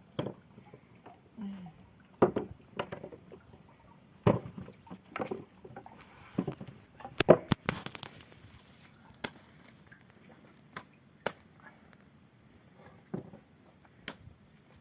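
About a dozen irregular knocks and clunks, hard objects being handled, the loudest a quick double knock about seven seconds in.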